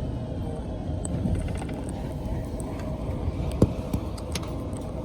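Local passenger train running between stations: a steady low rumble of wheels on the rails, with a sharp knock about three and a half seconds in.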